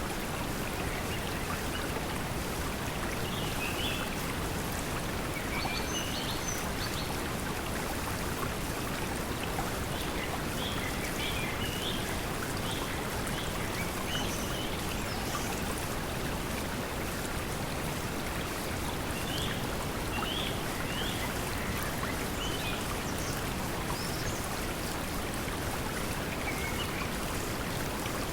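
Steady pink noise blended with flowing stream water, with short bird chirps scattered throughout.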